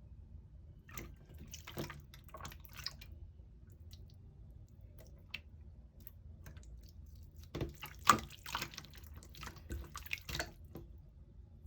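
Melted yellow slime being squeezed and worked by hand, giving wet sticky clicks and pops in scattered clusters, the loudest about eight seconds in.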